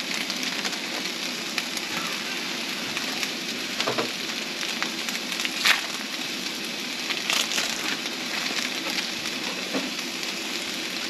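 Fresh-ground burger patties frying in a pan: a steady sizzle with a few sharper pops and crackles.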